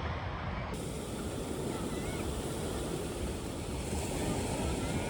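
Steady rush of sea surf with wind, changing abruptly to a brighter hiss a little under a second in.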